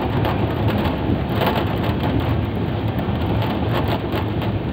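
Express passenger train running fast, heard from outside the coach window: a steady rush of wind on the microphone mixed with wheel-on-rail running noise.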